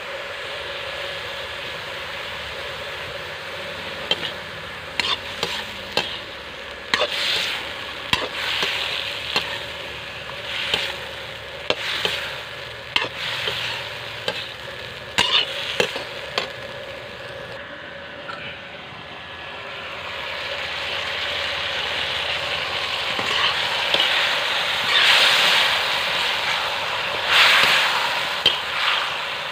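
Potato pieces and small fish frying in a metal wok, sizzling steadily, while a perforated steel spatula stirs them and knocks and scrapes sharply against the pan. The sizzling and stirring grow louder over the last few seconds.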